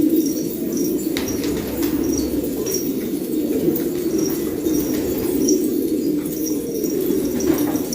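A loft of domestic pigeons cooing together without a break, with short high chirps repeated throughout and a few brief wing flaps.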